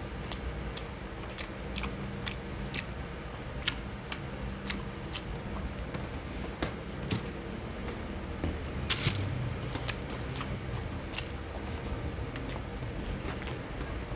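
Close-up chewing of a mouthful of rice and boiled pork hock: wet mouth clicks and smacks at irregular intervals over a faint steady hum, with one brief louder rustle about nine seconds in.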